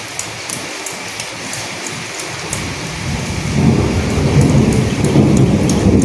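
Steady rain with many small drops ticking; about two and a half seconds in, a low rumble of thunder builds and rolls on, becoming the loudest sound.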